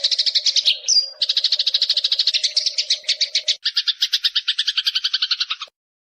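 Eurasian tree sparrow giving a rapid, even chatter of chirps, about ten a second, with a short rising whistle about a second in. The chatter breaks off suddenly near the end.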